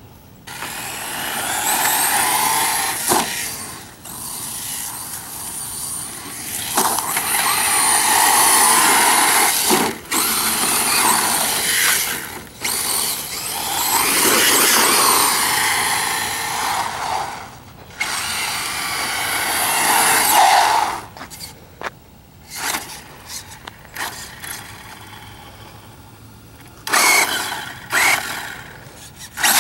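Electric motor of a 1/10-scale 4WD RC short course truck whining in repeated bursts of several seconds as it is driven and accelerated, pitch rising and falling; the runs become shorter and fainter in the last third.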